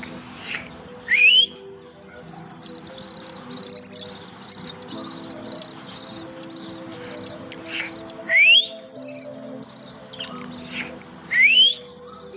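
Parrot chicks chirping, a rapid string of high short calls repeated all through. Three loud rising whistles stand out over them: about a second in, about eight seconds in and near the end. Faint steady background music tones sit underneath.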